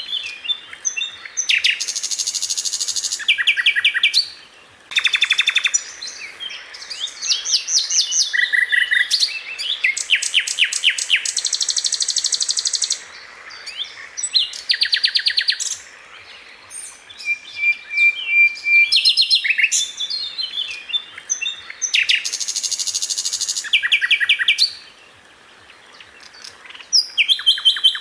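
Sikatan Londo flycatcher singing: fast, tightly packed bursts of high trills and rapidly repeated notes, broken by short pauses.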